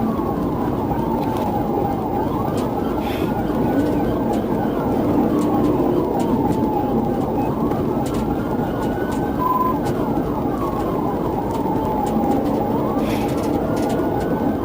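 Police siren in wail mode, its pitch rising and falling slowly, about one full sweep every five seconds, over steady engine and road noise during a high-speed pursuit.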